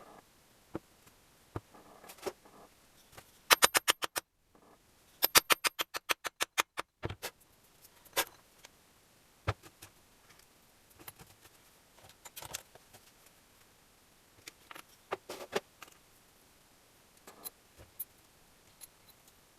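Metal tools and small engine parts handled during engine assembly: scattered clinks and knocks, with two runs of quick, even clicks a few seconds in.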